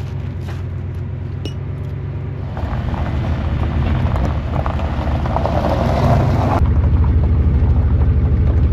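Truck engine idling, then picking up about two and a half seconds in and running louder and rougher as it takes the load of a trailer. A hissing noise rides over it and cuts off suddenly about six and a half seconds in.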